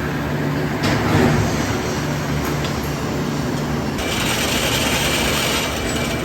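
Metalworking factory machinery running with a steady low hum and clatter, a brief knock about a second in, and a higher hissing whine joining about four seconds in.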